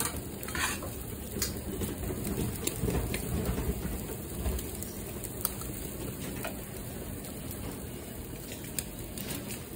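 Steady crackling sizzle of food frying on a hot griddle, with a few sharp clicks of metal tongs against steel trays and a plate.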